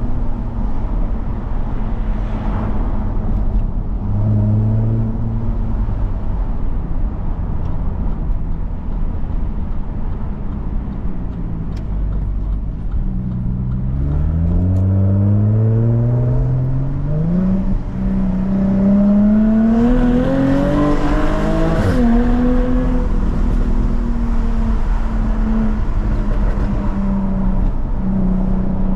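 Jaguar F-Type S supercharged 3.0-litre V6 engine running at a steady cruise. About halfway through it accelerates hard, its pitch climbing in several steps through the gears. At the peak there is a single sharp crack, then it settles back to a steady drone.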